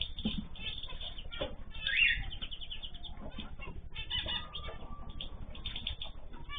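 A mixed group of small cage birds (cockatiels, zebra finches, canaries and goldfinches) chirping and calling over one another, with one louder call about two seconds in and a thin, slightly falling note held for about two seconds after the middle.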